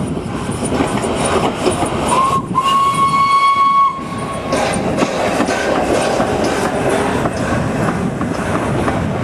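Steam locomotive Tornado, an LNER A1 Pacific, running with its train, with a clatter of wheels on rail. About two seconds in its whistle gives a short blip, then one longer steady note of about a second and a half.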